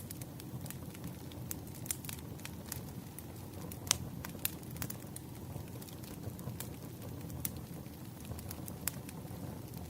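Wood fire crackling: irregular snaps and pops over a low, steady rumble, with one sharper pop about four seconds in.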